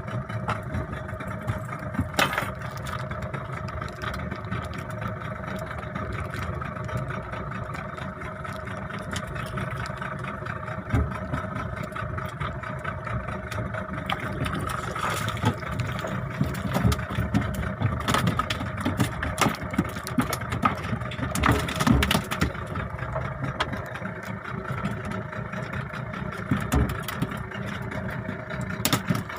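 A boat engine runs steadily at a low, even speed, with scattered short knocks and clatter over it.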